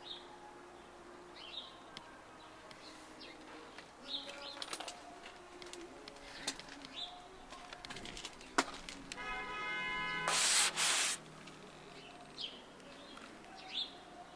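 Small birds chirping in short, scattered calls. About nine seconds in there is a brief buzzy tone, then a loud hiss lasting about a second.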